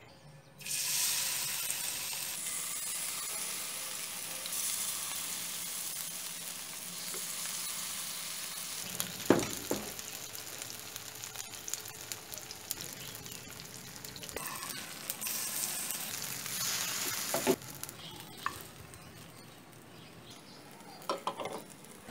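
Pancake batter frying in hot palm oil in a nonstick frying pan, a dense sizzle that starts suddenly about a second in as the batter goes into the oil and keeps up as the pancakes cook. A few sharp knocks against the pan, the loudest about nine seconds in and again about seventeen seconds in.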